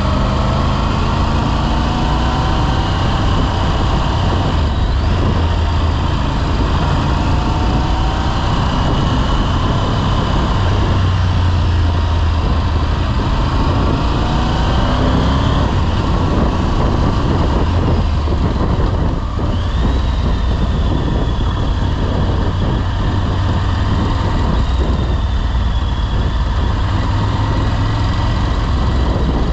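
Motorcycle engine running on the road, its pitch sliding up and down with changes of throttle and gear, over a steady low rumble.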